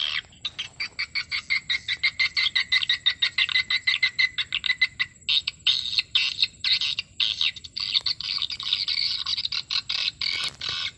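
Swiftlets calling, a dense rapid chattering of short chirps, many a second.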